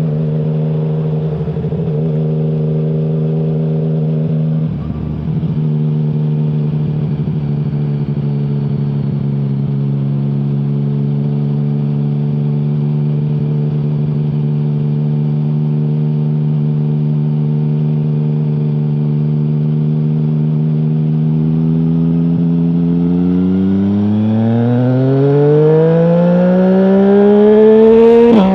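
2020 Yamaha MT-09's three-cylinder engine through an Akrapovic full-system exhaust with no dB killer, running at steady revs with a brief dip about five seconds in. In the last five seconds the revs climb steadily under acceleration, then drop sharply at the very end.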